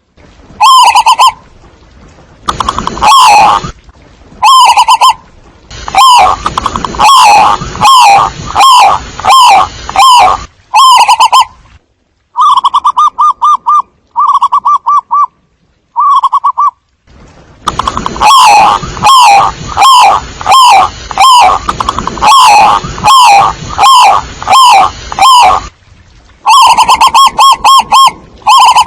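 Zebra dove calling: bursts of rapid, staccato cooing notes repeated several times a second, with short pauses between bursts. The recording is very loud and distorted.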